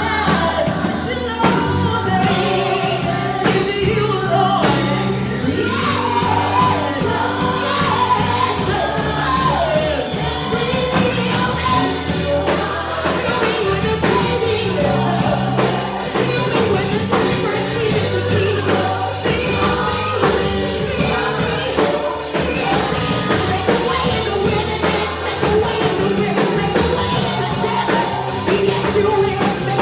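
Live gospel praise music: a band with a steady beat and bass, with voices singing over it.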